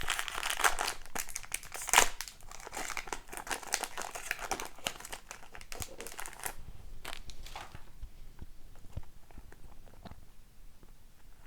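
The wrapper of an Upper Deck Overtime hockey card pack being torn open and crinkled, with a sharper rip about two seconds in. After about six seconds it gives way to softer scattered clicks as the cards are handled.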